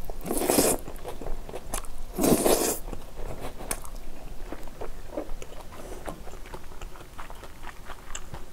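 Close-miked eating of kimchi fried rice: a spoonful goes into the mouth with two loud, noisy bursts in the first three seconds, then chewing with many small wet mouth clicks.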